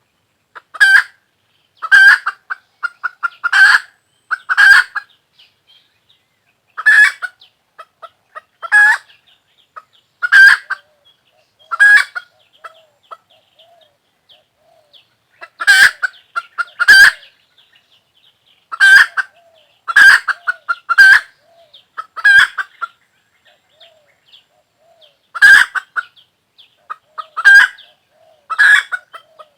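A chicken calling over and over: short, loud calls, some in quick pairs, repeating every second or two.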